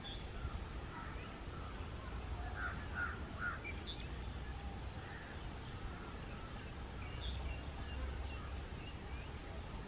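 Birds calling in the background: a quick run of three short calls a little under three seconds in, with scattered brief higher chirps through the rest, over a steady low rumble.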